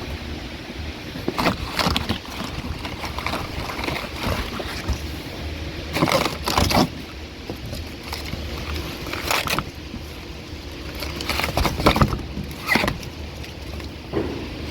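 Workshop handling noise: intermittent knocks and clatters of parts being handled, over a steady low hum. The loudest knocks come about six and a half, nine and a half, and twelve seconds in.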